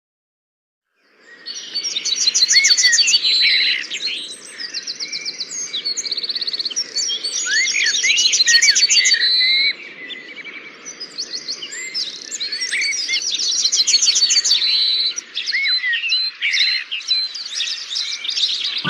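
Several songbirds singing at once, a dense chorus of trills, chirps and whistled notes that starts about a second in, over a faint steady background noise.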